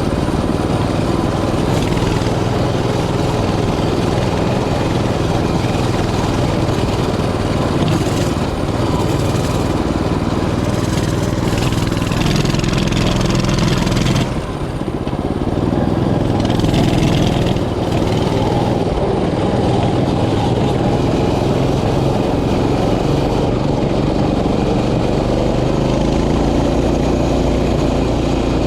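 Mini bike's small engine running steadily while riding. The engine sound dips briefly about halfway through, then picks up again.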